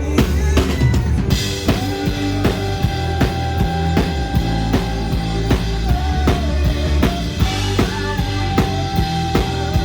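Band music led by a drum kit: kick and snare keep a steady beat over a heavy bass line and long held instrument notes, with no singing.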